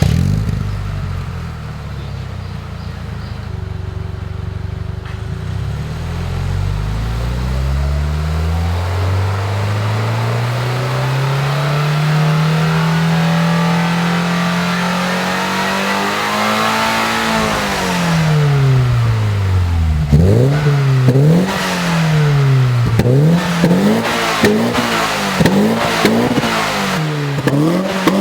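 Toyota GR86's flat-four engine through a SARD titanium exhaust, revved with the car standing still. It climbs slowly to high revs and falls back, then is blipped in a quick series of short revs.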